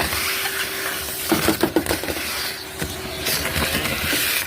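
Vacuum cleaner running with a steady hiss and whine. A few knocks and rattles come about a second and a half in.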